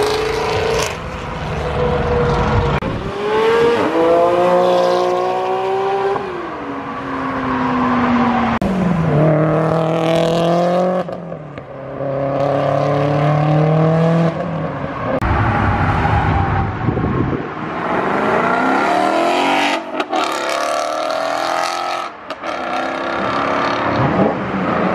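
Car engines accelerating hard past on the road, revving up through the gears. The pitch climbs, drops back at each shift and climbs again, in several pulls one after another.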